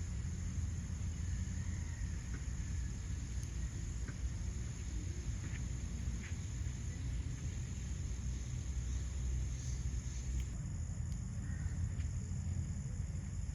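Steady high-pitched chirring of insects over a constant low rumble, with a few faint clicks.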